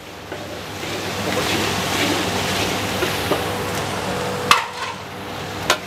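Ground bird's-eye chilies, shallots and garlic sizzling in hot oil in a large wok, the sizzle swelling about half a second in and easing off near the end. A metal ladle clanks sharply against the wok twice near the end.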